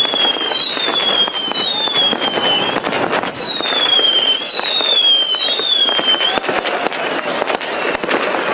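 Fireworks display: rapid bangs and crackling of bursting shells. Over the first six seconds or so, many overlapping whistles from whistling fireworks each fall slightly in pitch, then only the bangs and crackle go on.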